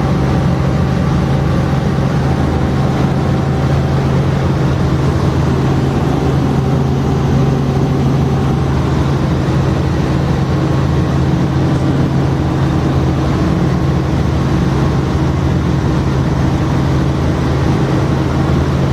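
Helicopter in flight: a steady, unbroken drone of engine and rotor with a constant low hum.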